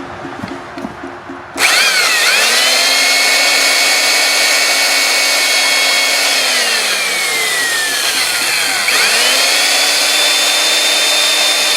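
Power drill boring a tap hole into a sugar maple trunk. It starts suddenly about a second and a half in and runs at a steady high whine, slows down under load for a few seconds, then speeds back up.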